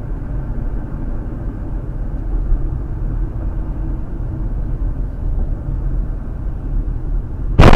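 Steady low road and engine rumble of a car driving. A sudden, much louder noise breaks in right at the end.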